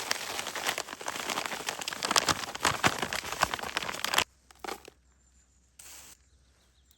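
Dense crackling, crinkling rustle full of small clicks, stopping abruptly about four seconds in, followed by a few faint knocks.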